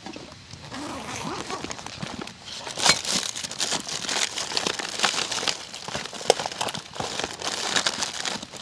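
Crinkling and rustling of something being handled, with irregular clicks and small knocks; one louder knock about three seconds in.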